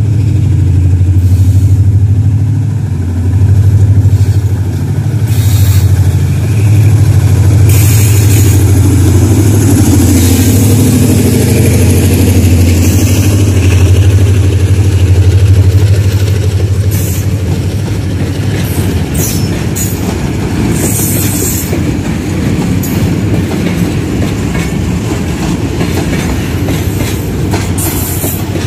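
Diesel locomotive hauling an oil tanker train away from a stop. Its engine drone is loudest in the first half, then gives way to the tank wagons rolling past, their wheels clattering over the rail joints with a few brief high squeals.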